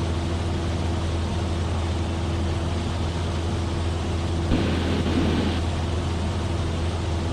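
Cessna 172F's six-cylinder Continental O-300 engine droning steadily at cruise power, heard through the cockpit intercom. A brief hiss lasting about a second comes in about four and a half seconds in.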